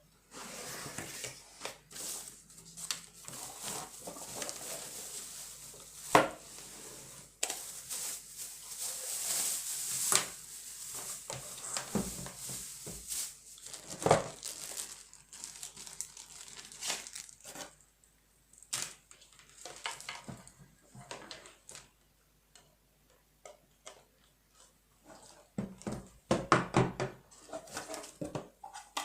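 Packaging crinkling and rustling as things are handled, with scattered clicks and knocks; no drill motor running.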